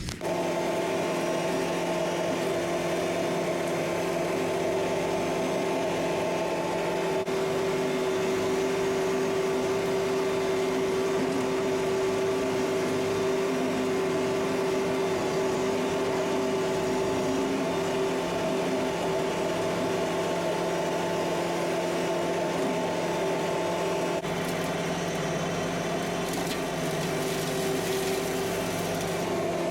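Kubota MX5800 tractor's four-cylinder diesel engine running at a steady speed, an even hum with a slight rise in pitch through the middle.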